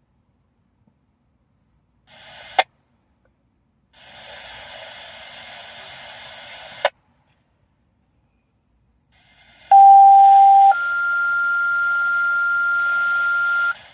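Fire dispatch radio on a scanner: the channel opens twice with hiss, each time cut off by a sharp squelch click, then a two-tone page sounds, a lower steady tone for about a second followed by a higher tone held about three seconds. This is the alert tone that sets off fire-station pagers ahead of a dispatch.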